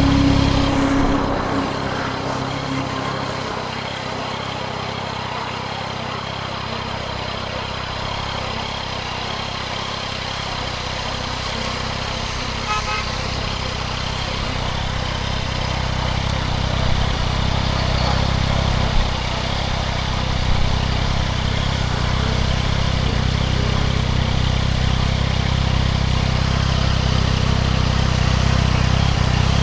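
Yamaha MT-09 SP's inline three-cylinder engine running through a Spark aftermarket exhaust with a steady low hum. A higher note dies away about two seconds in, and the engine sound grows slowly louder over the second half.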